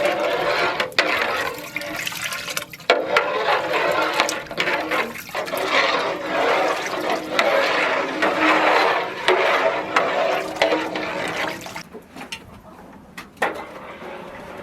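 Water pouring and splashing, with a short break about three seconds in and a quieter stretch near the end.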